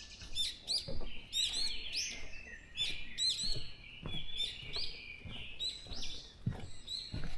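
Several songbirds singing at once in a forest: many overlapping high chirps, trills and whistles.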